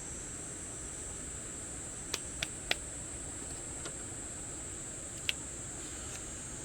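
A campfire of damp firewood crackling, with three sharp pops close together about two seconds in and another a few seconds later, over a steady high-pitched drone.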